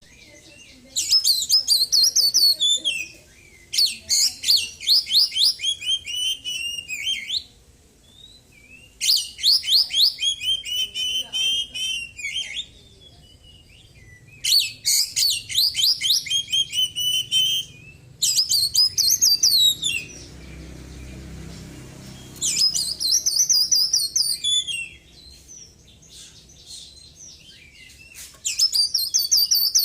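Oriental magpie-robin (kacer) singing in loud, energetic bouts of a few seconds each, separated by short pauses. The song is made of fast runs of repeated high, chirping notes, filled with imitations of small birds' songs.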